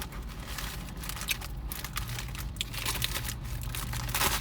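Paper fast-food wrapper crinkling and rustling as it is handled, in a run of irregular small crackles.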